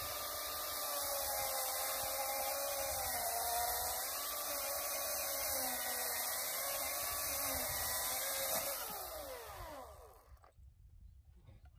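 Battery-powered chainsaw running and cutting into wood, its electric motor whining with a wavering pitch. Near the end the trigger is released and the motor spins down with a falling pitch.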